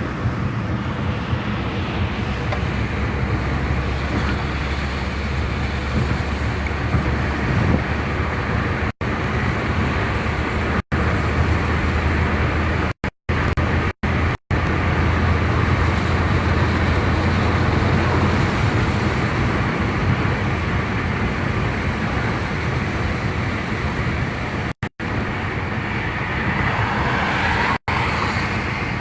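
Steady road and engine noise of a car driving along, a continuous rumble with tyre and wind hiss. It is cut by a few brief dropouts in the audio.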